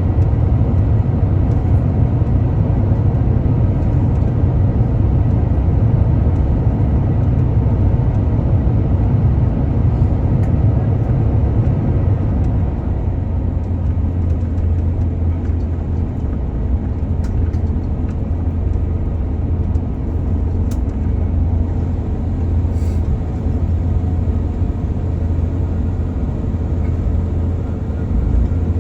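Airbus A350-1000 heard from the passenger cabin: a steady, loud rumble of its Rolls-Royce Trent XWB engines and airframe, easing slightly about twelve seconds in.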